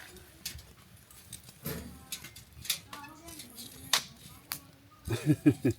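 Wood campfire crackling, with irregular sharp pops. A short voice-like sound comes about two seconds in and a louder one just before the end.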